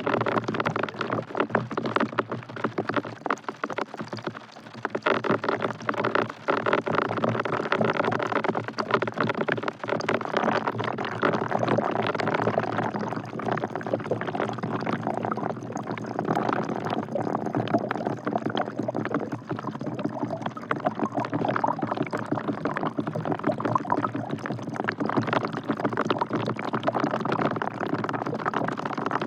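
Rain falling into a bucket: a steady, dense patter of drops splashing into water, dipping briefly about four seconds in.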